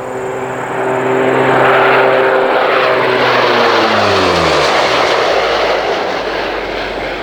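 Lockheed P-3K Orion's four Allison turboprop engines in a low fly-past. The propeller drone holds a steady pitch, then falls in pitch about three to five seconds in as the aircraft passes, leaving a broad rushing engine noise.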